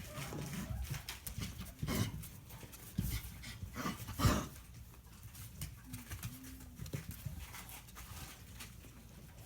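Five-week-old English Shepherd puppies panting, with a short whine about six seconds in.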